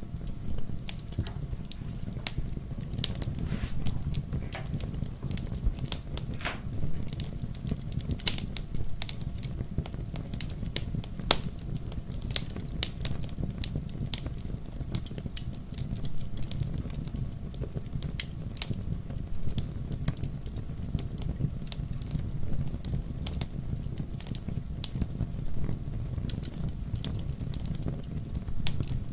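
Wood fire crackling and popping over a steady low rumble of the flames, with scattered sharp snaps.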